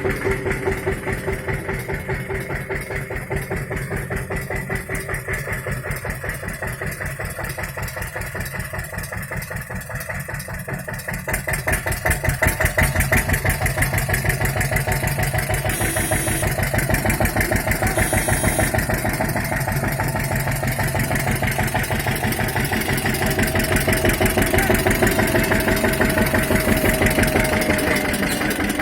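Tractor engine running steadily with an even pulsing beat, getting louder about twelve seconds in and again near the end. In the last few seconds a thin steady whine sounds over it, dipping in pitch as it fades out.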